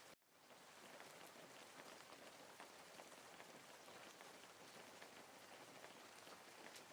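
Faint, steady rain, a dense hiss of many small drop ticks. It cuts out for a split second just after the start and fades back in.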